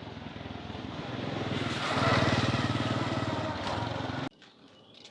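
A small engine running with a fast, even pulse, growing louder to a peak about two seconds in and easing slightly before it cuts off abruptly about four seconds in.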